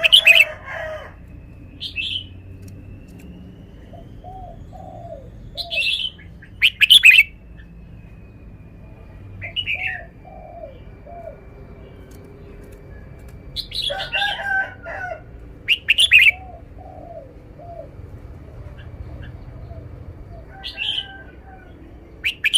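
Red-whiskered bulbul singing short, loud phrases every few seconds, with softer, lower chirping notes in between and a faint steady high tone underneath.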